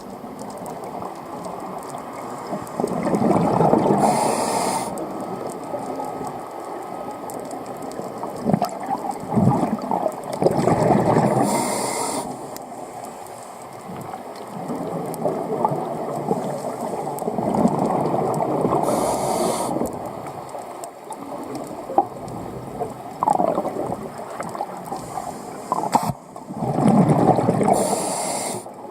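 Scuba diver's regulator breathing heard underwater: four exhalations of rumbling, gurgling bubbles about every seven to eight seconds, each with a short hiss, over a steady wash of water.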